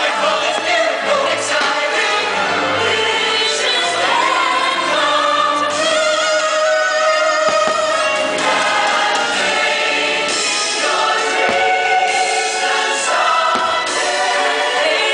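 Fireworks-show soundtrack over park loudspeakers: an orchestra with a full choir singing, and a few low thumps from firework bursts underneath.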